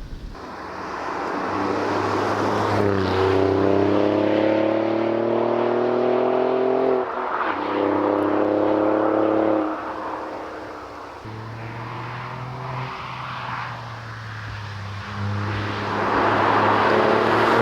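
Alfa Romeo Giulia Quadrifoglio's twin-turbo V6 accelerating hard. The engine note climbs in pitch, drops at an upshift about seven seconds in, and climbs again. It then backs off to quieter running and builds up once more near the end.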